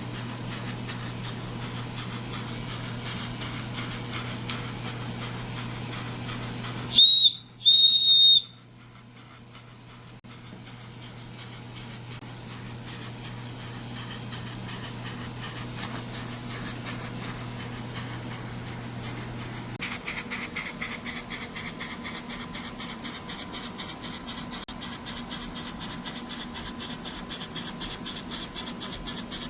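Working steam whistle on a Retrol scale model steam engine blown in two short loud blasts, back to back, about seven seconds in. Around it the small steam engine runs with a steady hiss, and fast, even ticking in the later part.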